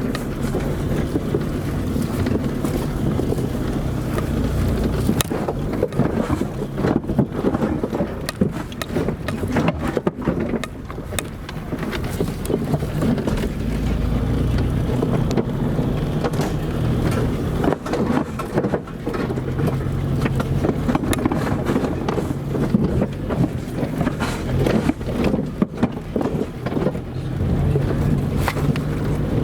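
Car driving along an unpaved dirt road: the engine running steadily with tyre and road noise, and frequent short knocks and rattles from bumps in the track.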